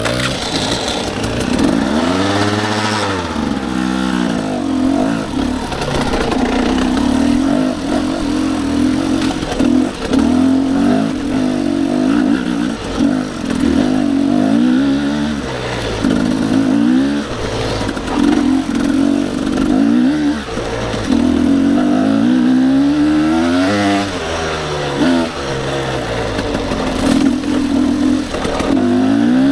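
Dirt bike engine working up a steep trail, its revs rising and falling again and again as the throttle is opened and eased off.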